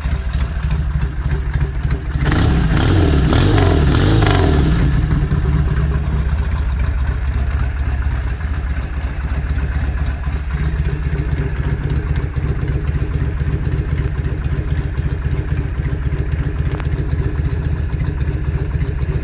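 1971 Norton Commando 750's air-cooled parallel-twin engine idling after a full rebuild. About two seconds in, it is blipped once, revving up and dropping back over about two and a half seconds, then settles back to a steady idle.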